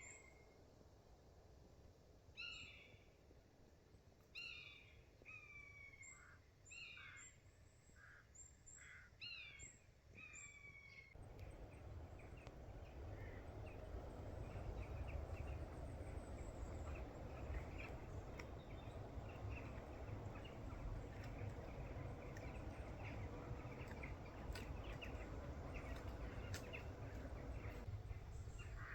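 A bird repeats short calls that fall in pitch, one every second or two, over a quiet outdoor background. About eleven seconds in, this gives way abruptly to a steady outdoor background noise, louder at the low end.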